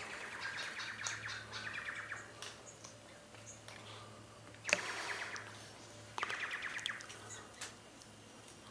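Several birds calling in bursts of rapid, chattering trills, in three spells. A single sharp click about halfway through.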